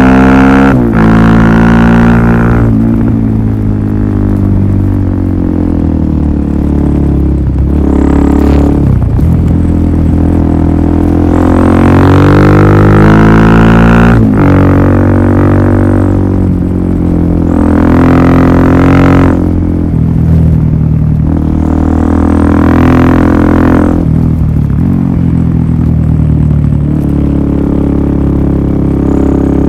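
Suzuki DR400SM single-cylinder four-stroke engine breathing through a Yoshimura full exhaust system, running loudly under load. Its engine speed climbs and then drops off sharply several times, as when revving up and backing off.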